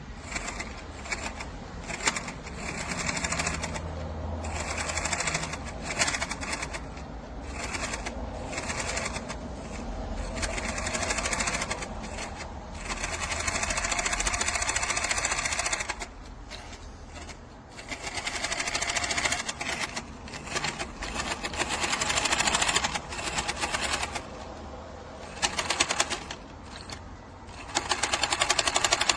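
Brushless electric motor and gear drivetrain of a 1/18-scale RC truck running, the whine and rattle swelling and dropping in repeated bursts as the throttle is worked.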